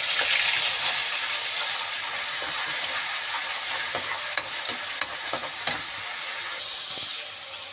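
Onion and green chilli paste sizzling in hot oil in a metal kadai, stirred with a slotted metal spoon that clicks against the pan now and then. The sizzle eases slightly near the end.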